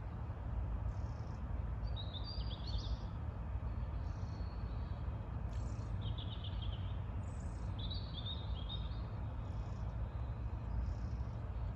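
Small birds chirping in short bursts, three times, over a steady low rumble.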